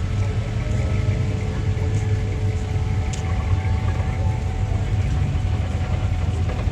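Classic car engines running with a steady low rumble.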